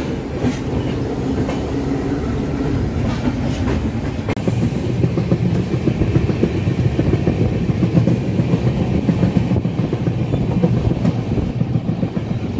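Passenger train running, heard from on board: a steady rumble of wheels on the track with a few clickety-clack beats from rail joints in the first few seconds, growing a little louder about four seconds in.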